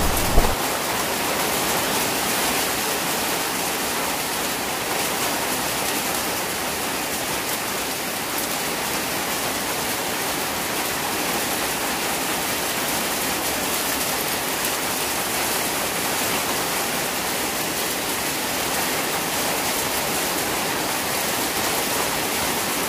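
Heavy rain falling steadily onto the water of concrete ponds, a dense, even hiss of drops on the surface. The tail of a low thunder rumble dies away in the first half second.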